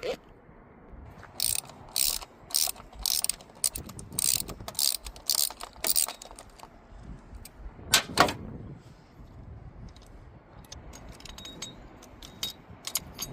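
Small hand ratchet with an 8 mm socket clicking in short bursts as long throttle-body bolts are backed out. A single louder knock comes about eight seconds in.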